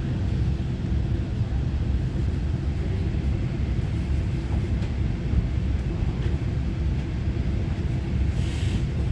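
Steady low running rumble of a Taiwan Railway EMU900-series electric multiple unit (set EMU923) under way, heard from inside the passenger cabin, with a short hiss a little before the end.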